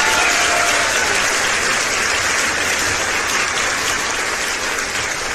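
Crowd applauding: dense, steady clapping that eases slightly, then cuts off suddenly at the end.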